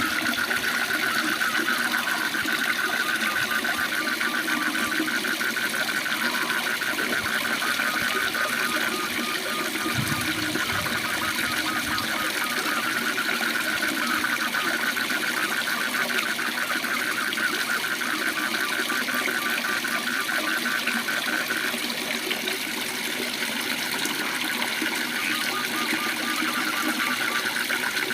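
Frogs trilling in a chorus, a fast pulsing call held at one pitch, over the steady rush of a waterfall. The trilling weakens for a few seconds about three quarters through, then comes back.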